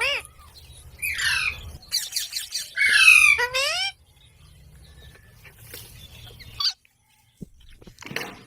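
Pet green parrot squawking: a run of short, harsh calls, the loudest about three seconds in, then a quieter stretch with one brief call near the end.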